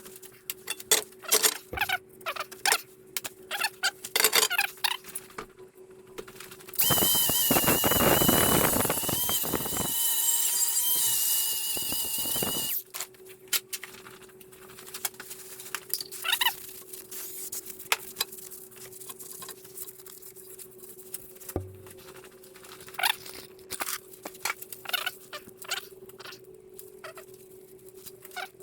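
Repeated light metallic taps and clinks of a new oil seal being driven into place in a Volvo TD 100 A diesel engine, with a pulley used as the driver. A loud, steady whirring hiss with a high whine starts about seven seconds in and cuts off suddenly about six seconds later.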